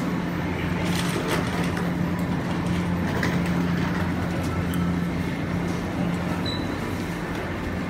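MTR Ma On Shan Line C-Train electric train running: a steady low hum over running noise, with a few faint clicks.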